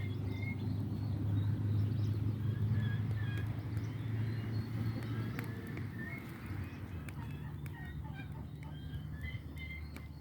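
A gasoline-soaked fire of wet firewood flaring up with a low roar that dies down after about five seconds, with a few crackles. Chickens and small birds chirp and cluck in the background.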